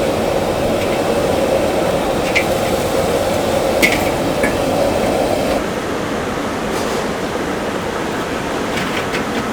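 Steady background din of a busy food shop with a machine-like hum that cuts off a little past halfway. A few sharp clicks sound in the middle.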